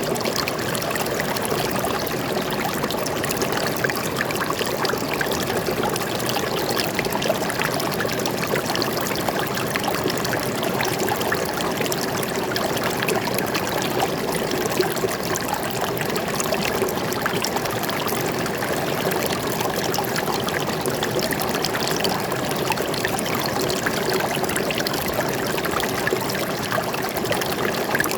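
Water flowing and splashing in a small stream, a steady rushing trickle with no break.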